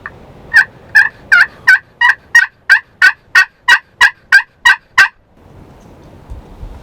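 A series of about fourteen turkey yelps, loud and evenly spaced at roughly three a second, ending abruptly about five seconds in.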